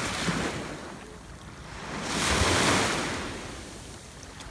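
Small sea waves washing up on the beach, one wash swelling and fading about two seconds in, with wind rumbling on the microphone.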